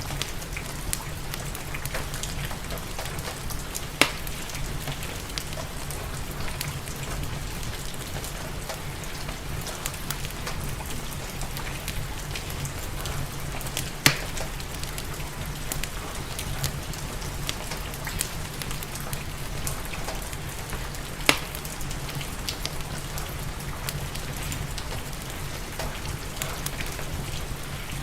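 Steady rain falling, mixed with a fireplace's wood fire crackling. There are small ticks throughout and three loud sharp pops, about 4, 14 and 21 seconds in.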